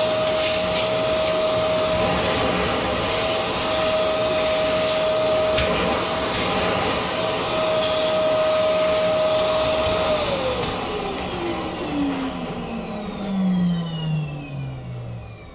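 Vacuum cleaner motor running steadily with a whining hum, then switched off about two-thirds of the way in, its whine sliding down in pitch as the motor winds down.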